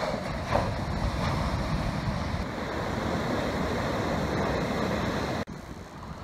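Heavy swell surging and breaking on the shore: a steady wash of surf with a stronger surge about half a second in. It stops abruptly about five seconds in.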